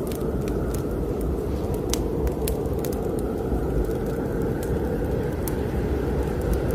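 Fireplace fire crackling with scattered sharp pops, over a steady low rush of blizzard wind.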